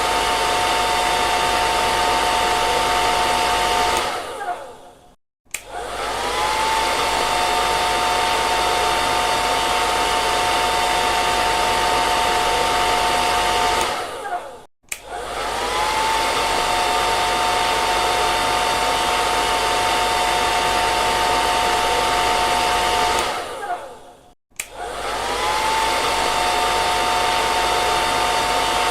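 Hair dryer running with a steady rush of air and a motor whine. Three times it dies away to silence and starts back up, the whine gliding up to pitch as the motor spins up again.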